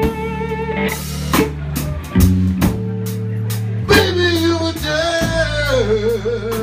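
Live blues band playing a slow blues with guitar, bass and drums. In the second half a lead line bends and wavers in pitch between sung lines.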